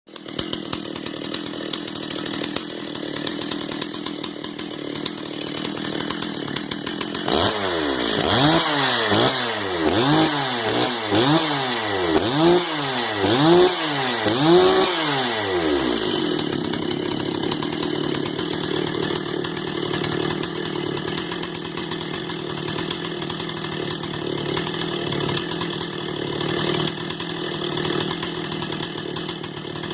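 Stihl MS 360 two-stroke chainsaw running at idle, then revved up and back down about seven times in quick succession, about once a second, before settling back to a steady idle. It is being tested after cleaning and carburetor adjustment.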